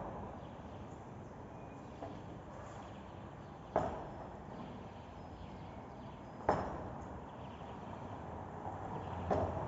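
Sharp knocks, three of them roughly three seconds apart and a fainter one near the end, each with a short ring, over a steady low background noise.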